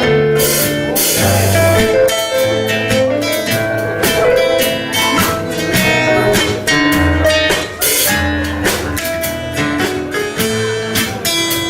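A live band playing an old tango, an instrumental passage without singing: a melody over a low bass line, with sharp percussion hits.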